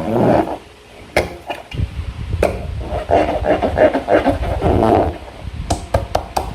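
Slime being squished and worked by hand, with irregular wet squelches and several sharp clicks.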